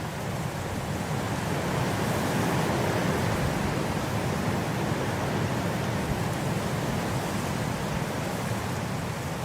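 Snowstorm wind blowing as a steady rushing noise, swelling a little about a second or two in.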